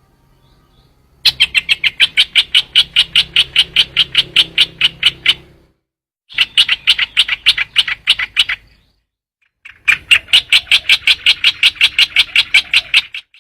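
Recorded trao trảo bird call played as a lure: three long runs of rapid, evenly repeated sharp notes, about five or six a second, with short breaks between runs.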